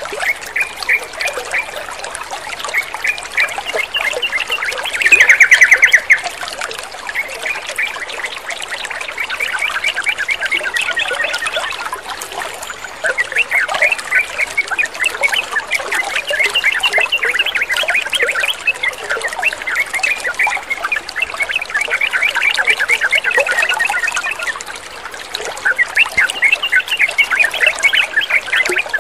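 Yellow-vented bulbuls chattering in fast, busy runs of calls over trickling water, with one loud burst of calls about five seconds in.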